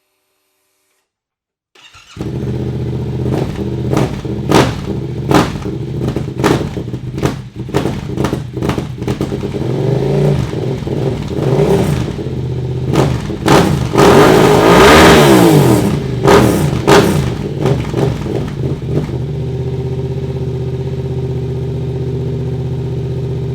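Yamaha Ténéré 700's parallel-twin engine through a full Dominator MX2 exhaust with no dB killer or silencer fitted. It comes in about two seconds in and is blipped over and over with short sharp throttle stabs. About two-thirds through it is revved higher and held for a couple of seconds, then it settles to a steady idle.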